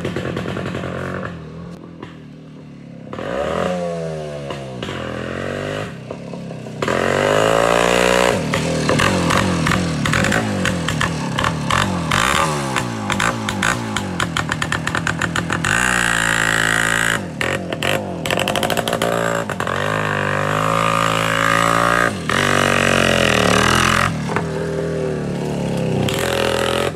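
Voskhod 3M's 175 cc two-stroke engine running with its exhaust baffles removed, revving up and dropping back again and again. It is quieter for the first few seconds, then loud from about seven seconds in.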